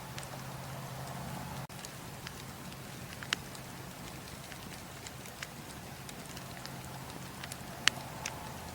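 Campfire crackling: scattered sharp pops and snaps of burning wood over a steady low rumble and hiss, with one louder pop near the end.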